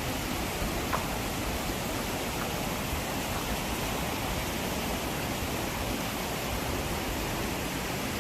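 Steady rushing noise, with one faint click about a second in.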